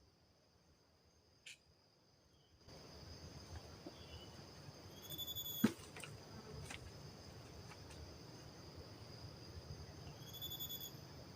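Forest insects trilling steadily on one high thin note, starting a little way in. A short, higher call comes twice, about five seconds apart, and there is one sharp click just past the middle.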